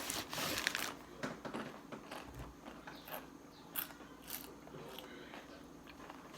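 Close-up crunching as someone bites into and chews Taco Bell cinnamon twists, which are stale and hard. The crunches are dense about a second in, then thin out to scattered chewing crackles.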